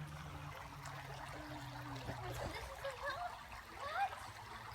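Water of a small stream trickling and gurgling steadily.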